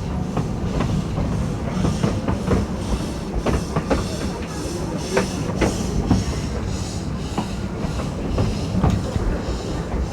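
Narrow-gauge railway carriage rolling along the track, heard from inside the carriage: a steady low rumble with irregular clicks and clacks from the wheels on the rails.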